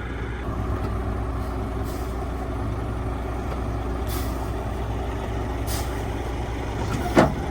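Heavy truck diesel engine idling steadily, with a couple of faint short air hisses and a brief squeak about seven seconds in.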